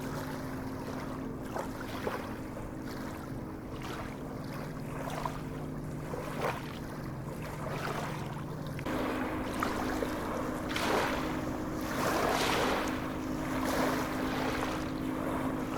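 Sea waves washing and surging in repeated swells, growing louder about nine seconds in, over a steady low hum.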